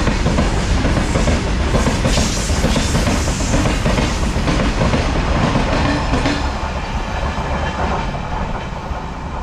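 Indian Railways freight train's wagons rolling past at speed, wheels clattering over the rail joints. The noise thins out in the last few seconds as the tail of the train goes by.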